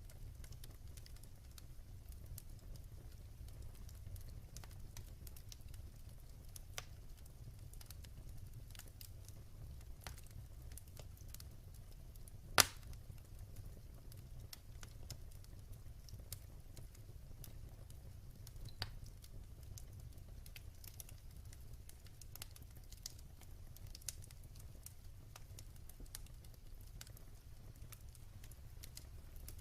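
Wood fire crackling in a fireplace: scattered small pops and ticks over a low steady rumble, with one loud sharp pop about halfway through.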